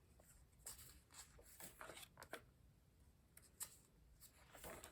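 Near silence broken by faint, scattered paper rustles and small clicks of a book page being handled and turned.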